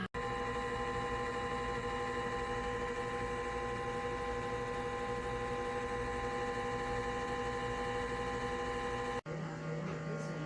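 Cuisinart TOA-65 air fryer toaster oven running, its convection fan giving a steady hum made of several level tones. The sound cuts out for an instant just after the start and again about nine seconds in.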